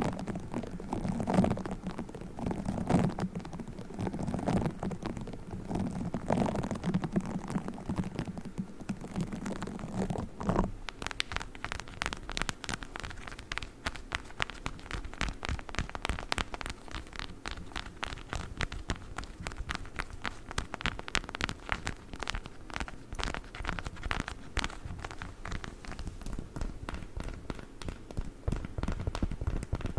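Play foam squished and kneaded close to the microphone in soft, irregular low squelches. About eleven seconds in it changes to a dense, rapid crackle of fine taps and scratches from a witch-finger toy.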